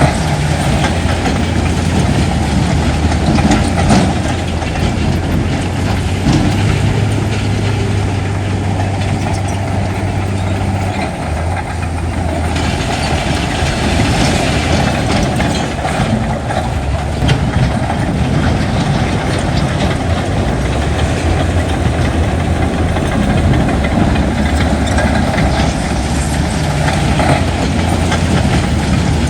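Heavy diesel earthmoving machinery running steadily, a deep engine hum with clattering over it; the engine note shifts briefly partway through.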